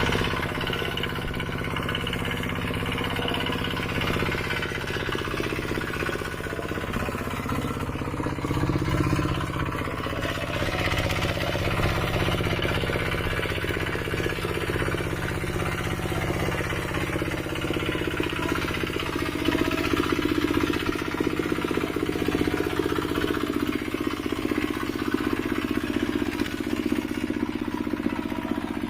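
Mini tractor engine running steadily with a fast, even chugging, getting a little louder at times.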